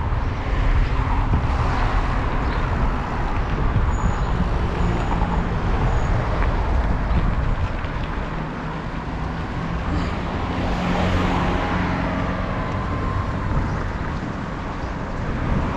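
Road traffic noise heard while riding a bicycle along a road: a steady rumble of passing motor vehicles, with the deepest part of the rumble strongest.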